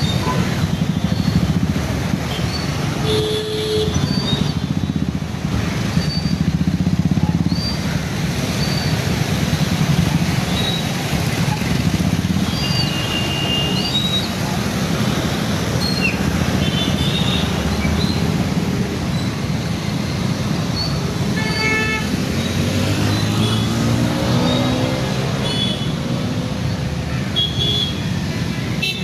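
Road traffic: a steady rumble of passing cars and motorbikes with a couple of short horn toots, one a few seconds in and one about 22 seconds in. Just after the second toot, an engine rises and falls in pitch as a vehicle passes.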